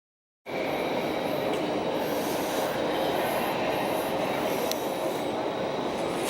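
Commuter train on the Mitre line running steadily, an even rumble with faint, steady high tones over it, starting about half a second in.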